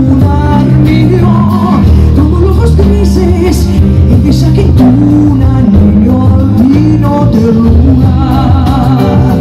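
Woman singing a slow ballad melody with vibrato over a sustained instrumental backing of held chords and bass.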